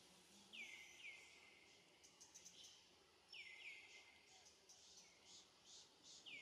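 Faint outdoor ambience with a bird calling: short high chirps, each sliding quickly downward, mostly in pairs, repeated a few times. A quick run of faint high ticks joins in about halfway through.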